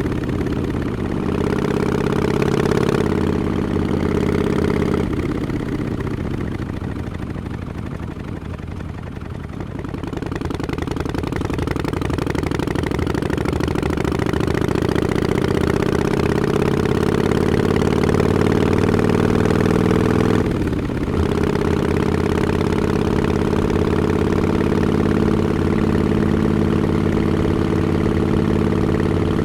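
Harley-Davidson XL1200X Forty-Eight's air-cooled 1200 cc V-twin running through Vance & Hines Short Shots pipes with quiet baffles, under way. The engine note holds steady, eases off about a fifth of the way in, then climbs in one long rising pull. It drops briefly about two-thirds through, as at a gear change, before settling into a steady cruise.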